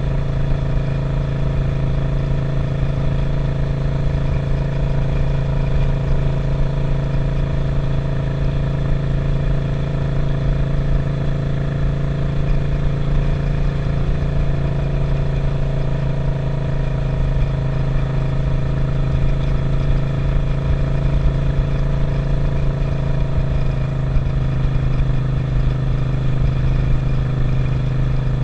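Suzuki SV650's 645 cc V-twin engine running at a steady road speed under a rider, its note holding nearly constant with only slight shifts in pitch, over a low rumble of air moving past.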